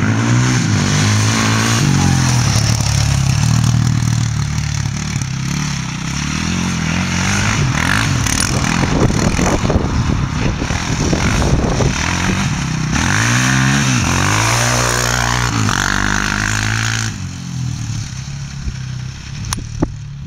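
Modified Yamaha Raptor 660 quad's single-cylinder four-stroke engine running and revved repeatedly, its pitch rising and falling. It drops to a quieter running about three seconds before the end.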